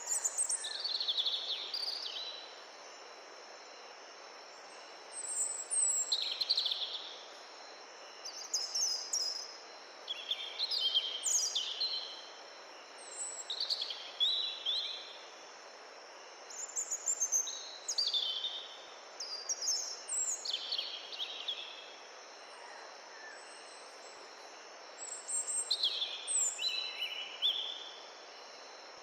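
Songbirds singing in short bursts of quick chirping notes, a phrase every two to four seconds, over a steady hiss of gentle wind. A faint steady high insect drone runs underneath.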